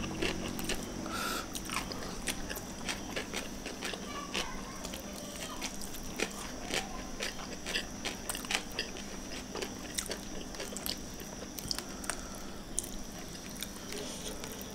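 Close-miked eating sounds: chewing, mouth smacks and clicks of people eating rice and fish by hand. Short, irregular, sharp clicks come several times a second throughout.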